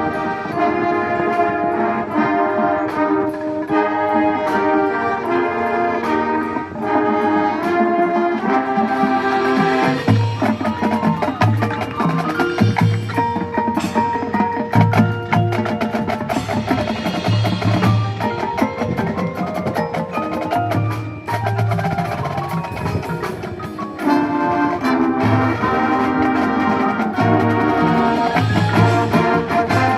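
Marching band playing: the front ensemble's mallet percussion carries rapid repeated patterns with percussion and brass beneath, and from about ten seconds in, low notes pulse in a steady rhythm.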